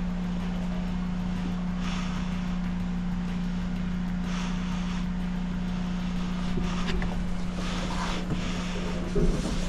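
A motor running steadily with a low, even hum, with occasional short hissy surges over it.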